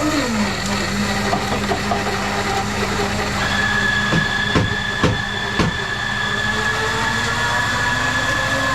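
Countertop blender motor running hard. Its pitch drops and settles just after it starts, then holds steady, with three brief dips in pitch around the middle as the load catches.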